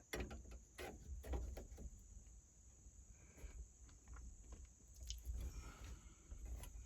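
Light clicks and knocks of small parts being handled by hand, several in the first two seconds, then only faint scattered rustles over a low steady rumble.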